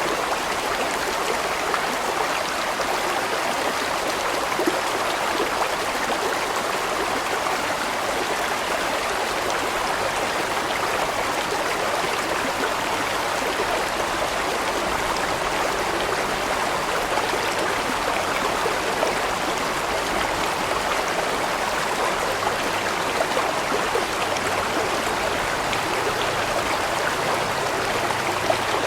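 A large mountain stream rushing steadily, water pouring and gurgling over rocks.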